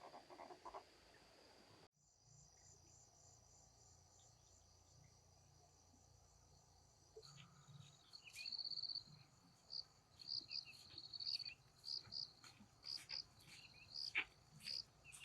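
Crickets and other insects trilling steadily in a high pitch, with an abrupt cut in the sound about two seconds in. From about seven seconds on, louder short chirps repeat every half second or so.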